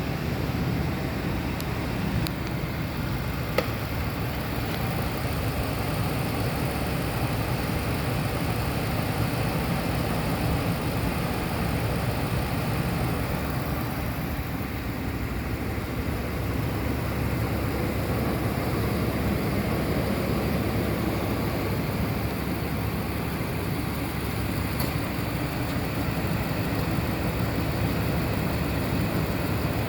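2004 Ford F-150's 4.6-litre V8 idling steadily, with one short click a few seconds in.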